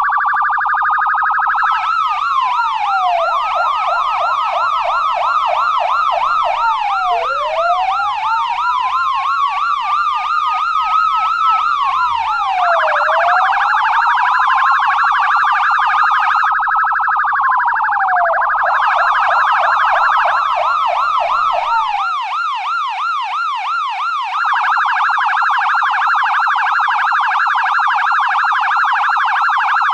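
American police car siren sounding loudly and switching between modes. It alternates between a slow wail that rises and falls, a fast yelp, and a very rapid warble, with the rapid warble taking over in the last few seconds.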